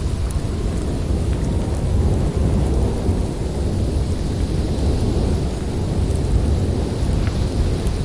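Snowstorm wind blowing steadily, a deep rumbling rush with small swells. A few faint high ticks sound through it.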